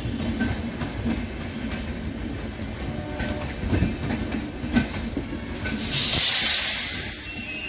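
Rajdhani Express LHB passenger coaches rolling slowly past, their wheels clacking over rail joints and points roughly once a second over a steady rumble. About six seconds in, a loud hiss of air rises and then fades.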